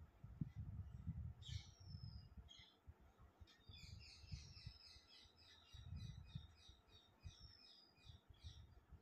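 Faint birdsong: short high whistles sliding down in pitch, and a quick run of chirps about four seconds in, over a low, irregular rumble.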